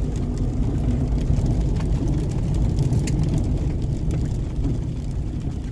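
Steady low rumble of engine and road noise inside a moving vehicle's cabin, with a few faint clicks.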